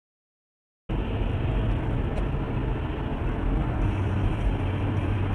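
Silence for about the first second, then the steady engine and road noise of a moving car.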